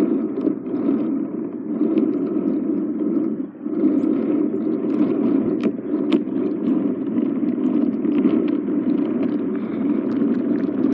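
Battery-powered toy train running along its track: a steady whirring rattle, dipping briefly about a third of the way in, with a couple of sharp clicks a little past the middle.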